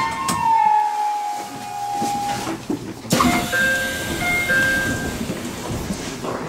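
Electric train's traction motor whine falling slowly in pitch as the train slows. About three seconds in there is a knock, then short steady electronic tones that sound twice.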